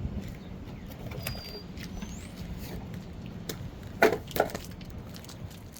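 Clicks and clatter of brake parts being handled, with two loud knocks close together about four seconds in, over a low steady hum. A faint bird chirp about a second in.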